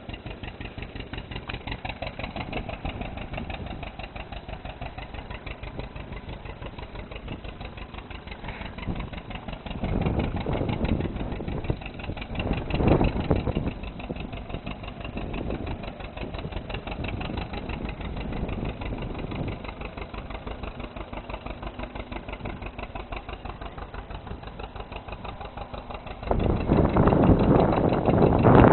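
John Deere 830 two-cylinder diesel tractor engine idling with a steady, even putting beat. It swells louder about ten and thirteen seconds in, and becomes much louder near the end.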